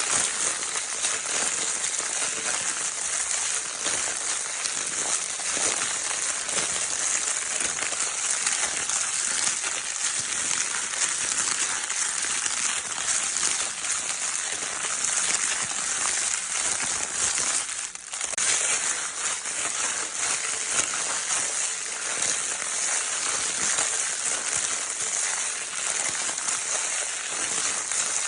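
Crinkle paper in a baby's crinkle toy being rustled and crumpled nonstop, a dense, crisp crackling rustle, with a brief lull about eighteen seconds in.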